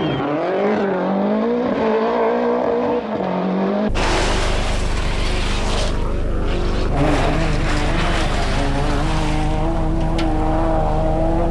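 Rally car engine revving up and down hard through the gears. About four seconds in, an abrupt cut brings a louder rush of noise with deep rumble, and the engine then holds a steady high note.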